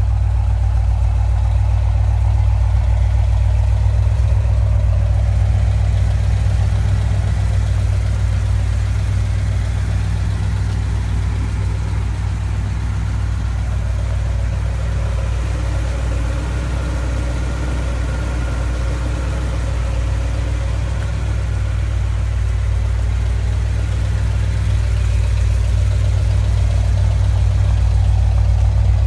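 1972 Chevrolet Corvette's V8 engine running steadily with a deep, even low rumble.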